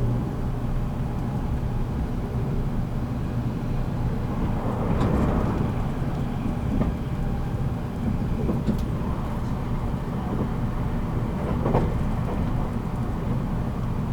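Running noise aboard a JR Kyushu 783 series electric limited express motor car: a steady hum of the traction motors and wheels on rail at speed. A few short clicks and knocks from the track pass through it.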